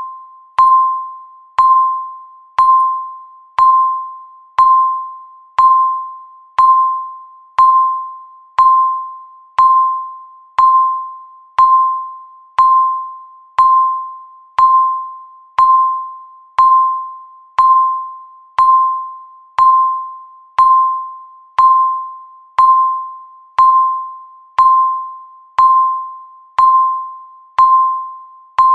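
Countdown timer's tick sound: a short, bell-like electronic ping once every second, each starting sharply and fading away before the next.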